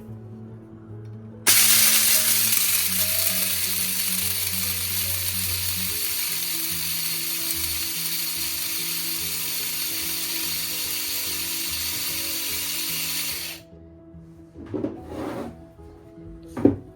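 A small electric household appliance motor switches on abruptly and runs with a steady, hissing whir for about twelve seconds, then cuts off. Two short knocks follow near the end.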